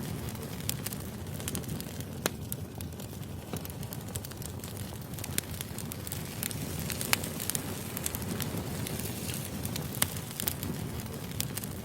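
Wood fire burning with a steady low rumble and irregular sharp crackles and pops from the logs.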